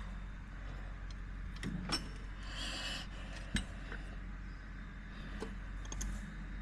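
Metal tools clinking and rattling in a toolbox as they are sorted through by hand: a few sharp clinks, with a short scraping rustle just before the middle.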